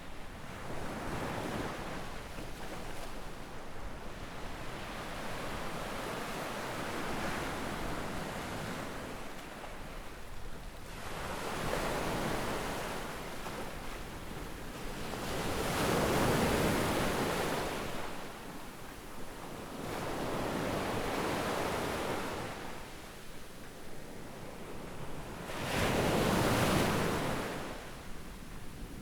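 Sea waves breaking and washing up on a sandy beach, swelling in surges every four to five seconds, with the loudest two about halfway through and near the end.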